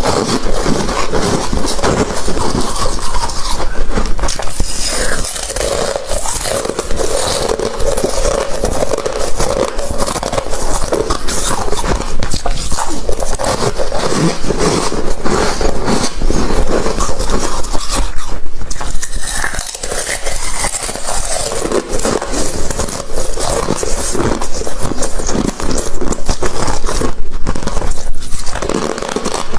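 Ice being bitten and chewed, a continuous loud crunching and crackling of ice breaking between the teeth.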